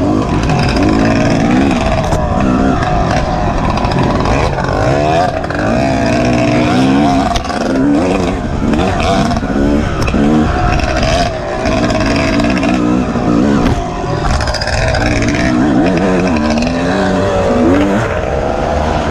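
Off-road dirt bike engine running hard in a hare scramble race. Its pitch rises and falls every second or two as the throttle is opened and closed.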